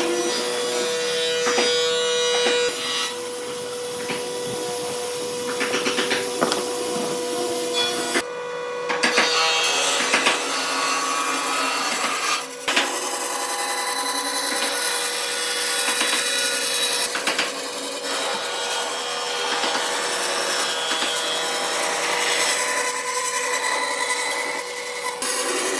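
Tools working wood, sawing, rasping and rubbing against the timber, with sudden changes about a third of the way in and near the end.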